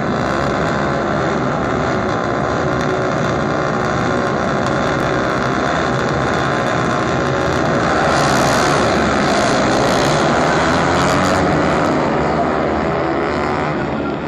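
Motorcycle engine running steadily, growing louder about eight seconds in and easing off slightly near the end.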